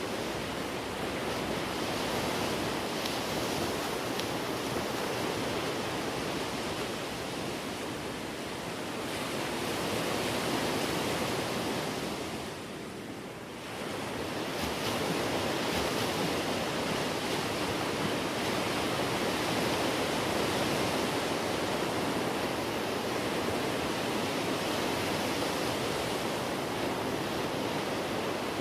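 Steady rush of sea and wind, an even wash of noise with no distinct events, that dips briefly about halfway through.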